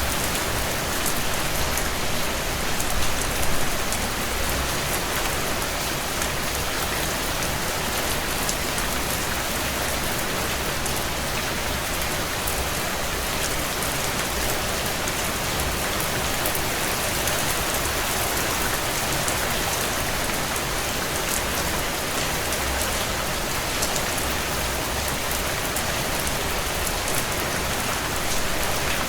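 Heavy rain falling steadily on a tin roof: a dense, even hiss of countless small drop impacts, with a brief slight swell about three seconds in.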